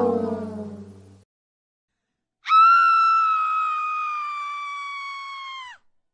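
A meme sound-effect clip of a single long, high-pitched scream that starts suddenly, holds for about three seconds with its pitch sinking slightly, and cuts off. Before it, the previous musical effect fades out in the first second, followed by a short silence.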